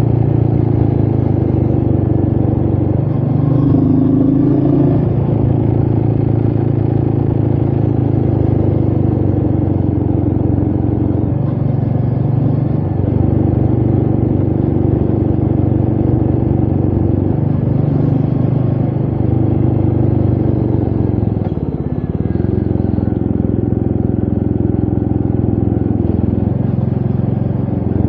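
Royal Enfield Meteor 350's single-cylinder engine running steadily under way, with wind noise. About three quarters of the way through, the engine note dips briefly, then picks up again.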